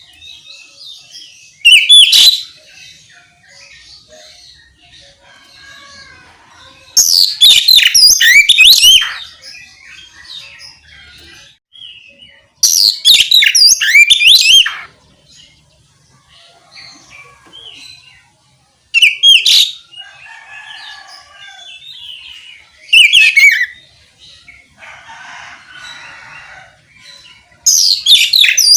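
Oriental magpie-robin (kacer) singing in the full, open ngeplong style: six loud phrases of rapid, varied whistles and trills, each half a second to two seconds long, with faint twitters between them. The last phrase is still going at the end.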